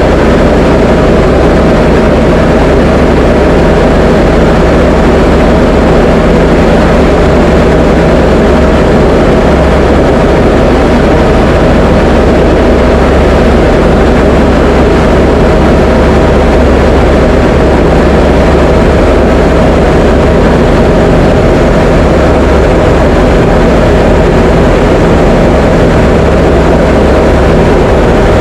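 Diamond DA20 light aircraft's piston engine and propeller running steadily in flight, a loud, unchanging drone.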